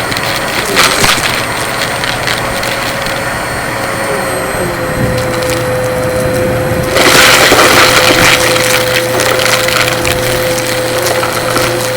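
Vacuum cleaner running with a steady motor whine while it sucks up dry, crunchy debris that crackles and rattles through it. The crackling grows much louder and denser about seven seconds in.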